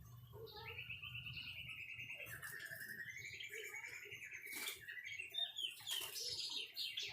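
White-rumped shama singing: a long, rapid trill that steps down in pitch, then a run of varied, quick whistled notes and glides, with a few sharp clicks in between.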